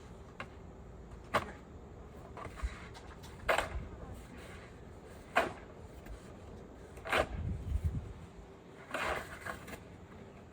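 A series of separate knocks and clunks, about six of them, a second or two apart, like things being handled or set down.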